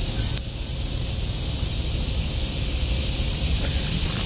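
Steady, high-pitched drone of an insect chorus, with a constant low rumble underneath.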